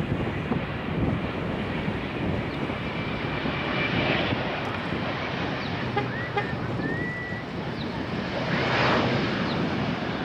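Jet airliner engine noise, a steady rush, with wind buffeting the microphone. A few short high chirps sound in the middle.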